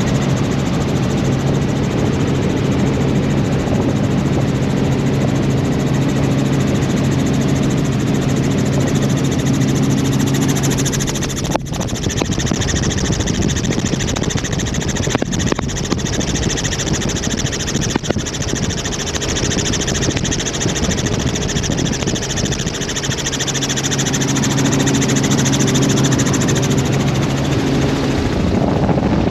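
Helicopter in flight: steady engine and rotor noise over a dense rushing hiss. A low hum in it fades out about a third of the way through and comes back near the end, with one sharp click where it fades.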